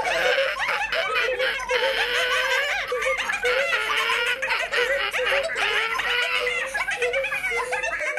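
Several people laughing together, overlapping giggles and snickers in a continuous stream.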